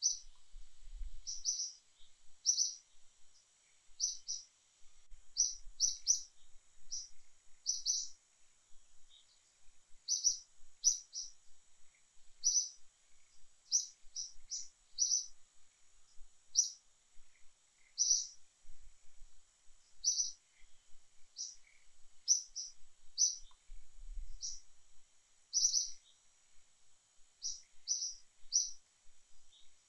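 A small bird chirping: short high notes repeated irregularly, about one or two a second, over a faint steady high whine.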